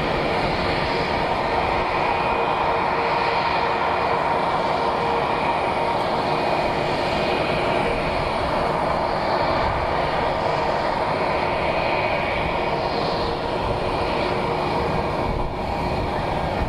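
Jet airliner engines running, a steady loud rush with a few held whining tones, easing slightly near the end.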